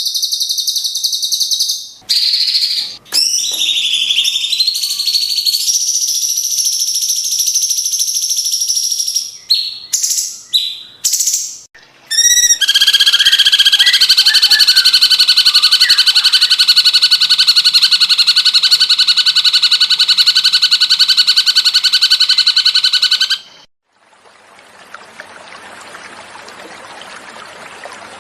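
Cucak cungkok birdsong: varied high-pitched phrases and short calls, then one long rapid trill lasting about eleven seconds that cuts off suddenly. About two seconds later a quieter sound of running water begins.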